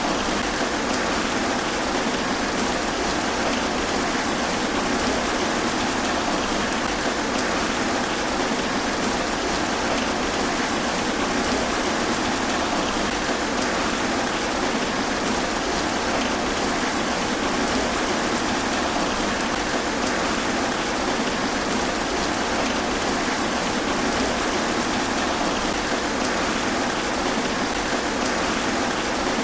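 Steady rain falling through tree foliage, an even, unbroken hiss with no let-up.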